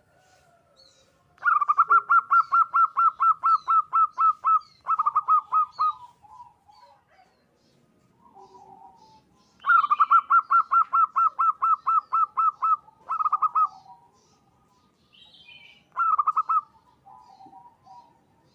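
Zebra dove cooing in rapid runs of short, even notes: two long runs of about three seconds, each followed by a brief run, and another brief run near the end, with soft lower coos in the gaps.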